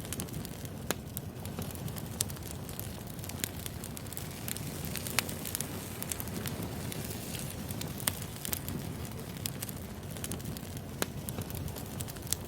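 Crackling wood fire: a steady low rumble of burning logs with irregular sharp pops and snaps, the loudest about five seconds in.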